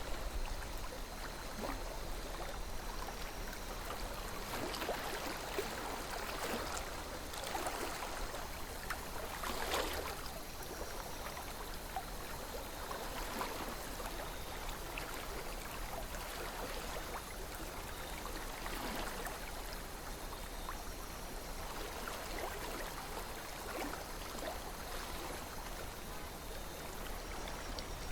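River water flowing steadily over rocks, a continuous gentle rush with small splashing and gurgling.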